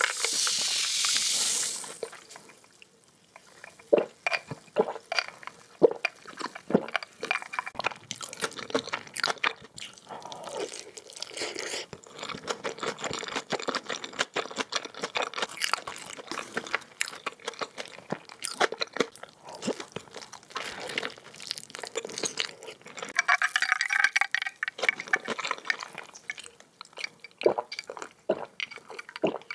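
Close-up eating sounds from kimchi mandu dumplings in spicy oil: wet chewing, lip smacks and irregular sticky clicks. A louder hissing, rustling burst fills the first two seconds.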